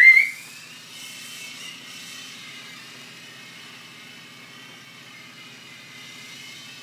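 A dog gives one short, loud rising yelp, which the owners put down to the toy helicopter nipping him. After it, the small electric rotor of a remote-control toy helicopter whirs steadily.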